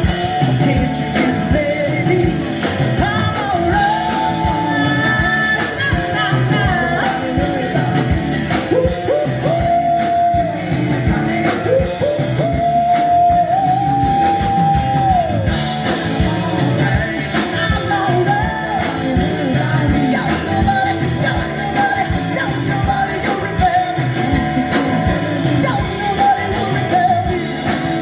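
Live rock band playing a song, with lead vocals over electric guitar, bass and drums keeping a steady beat; the singer holds a few long notes partway through.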